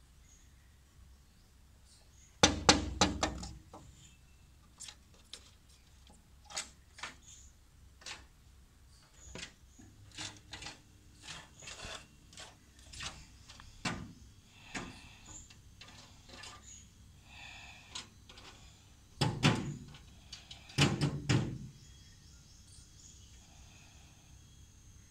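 Woodpecker pecking at a glass mirror: a quick run of hard taps about three seconds in, scattered single taps after it, and two more quick runs near the end.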